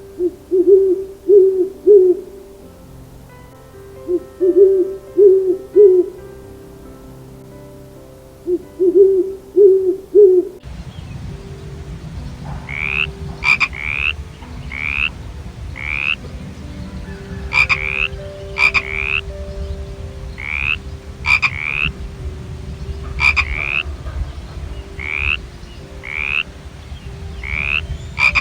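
Frogs calling. First come low croaking calls in three groups of three or four. After a cut, high rising chirps repeat about once or twice a second over steady background noise.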